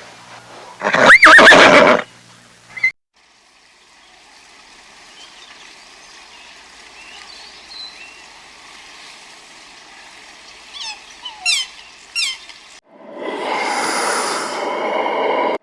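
A horse whinnying loudly about a second in, then a cut to faint outdoor ambience with a few short, high, falling chirps. Near the end a loud, breathy, noisy sound starts.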